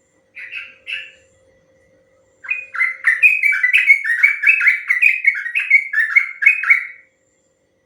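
Sooty-headed bulbul (trucukan) singing: two short notes, then after a brief pause a long, rapid run of bubbling, up-and-down notes lasting about four and a half seconds.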